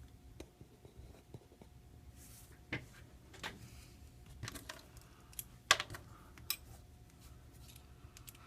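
Faint, scattered clicks and taps of small metal repair tools and parts against an opened iPhone, with two sharper clicks just past the middle.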